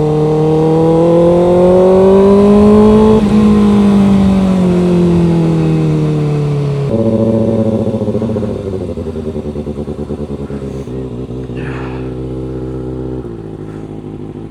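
Motorcycle engine pulling up through the revs for about three seconds, then easing off and winding down, with sudden drops in pitch about seven seconds in and again near the end.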